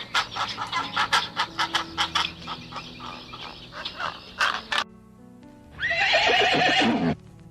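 A horse neighs once about six seconds in, loud, its pitch falling at the end, over steady background music. Before it comes a quick run of knocks lasting about five seconds.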